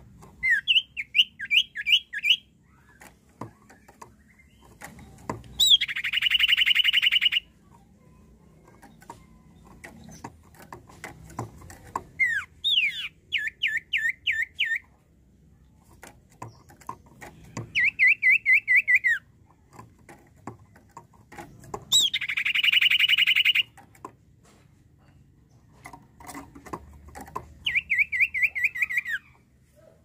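Common iora singing: several quick runs of five to eight down-slurred whistled notes, and twice a longer buzzing trill lasting about a second and a half.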